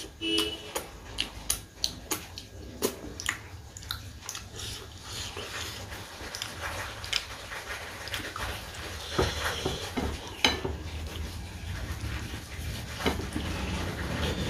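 A person eating close to the microphone: chewing and lip-smacking, with many short crackles and clicks. A steady rushing noise builds toward the end.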